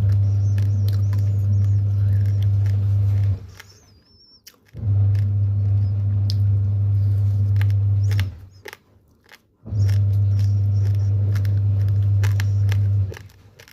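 Raw uncooked rice grains being bitten and chewed, with scattered sharp crunches and clicks. A loud steady low hum comes in three stretches of a few seconds each, cutting out briefly between them, and is the loudest thing heard.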